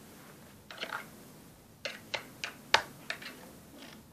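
A scattered series of light clicks and taps, about seven in a few seconds, from small plastic dolls and toy props being handled and set in place.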